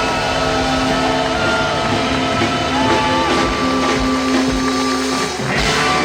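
Live blues band holding out a long closing chord, with bending slide-guitar notes over it, then a cymbal crash near the end as the song finishes.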